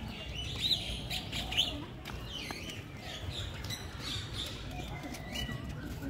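Birds chirping and calling, short rising-and-falling notes repeated throughout, loudest about a second in, over a steady low background hum.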